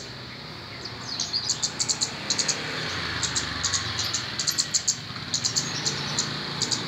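A kemade bird (Indonesian local name) calling with quick runs of short, high chirps, repeated in clusters of three or four throughout, over a faint low steady hum.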